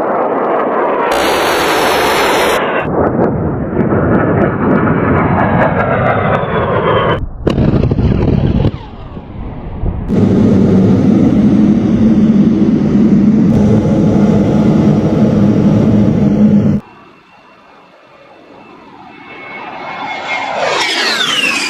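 Edited run of A-10 Warthog jet noise: loud twin-turbofan engine noise in several abrupt cuts, ending with a jet passing whose pitch falls as it goes by.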